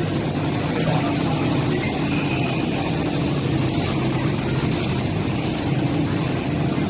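Steady low hum of a stationary passenger train standing at a station platform.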